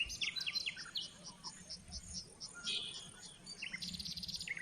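Outdoor insect chirping in a steady, even pulse of about five high chirps a second, with short, sharp bird chirps calling over it now and then.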